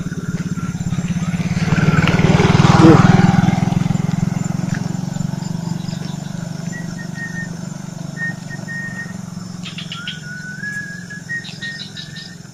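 A small motorcycle engine running, growing to its loudest about three seconds in and then slowly easing off. Short, high, repeated chirps come in during the second half.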